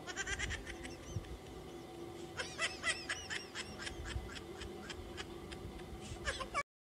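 Birds calling in quick short honking notes, several a second, in two bursts: one at the start and a louder one from about two and a half seconds in. The sound cuts off abruptly near the end.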